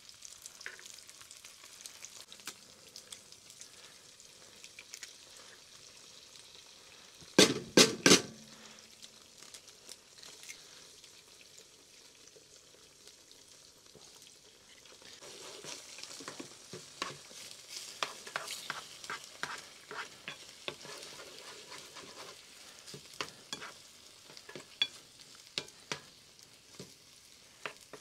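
Food sizzling as it fries in a pan, likely eggs just cracked into it. About a third of the way in there are three sharp knocks, and for the second half a utensil scrapes and clicks against the pan as the food is stirred.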